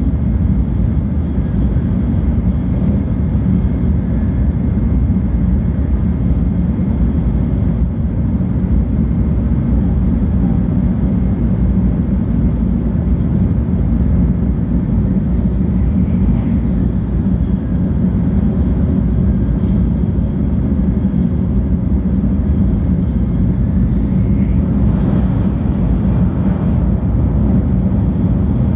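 Steady low rumble of a 700 series Shinkansen heard from inside the passenger car while the train runs along the line.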